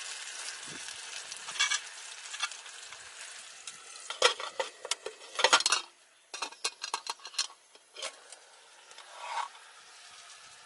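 Food sizzling in a pan, the hiss dying away over the first few seconds, followed by a run of sharp clicks and clatters.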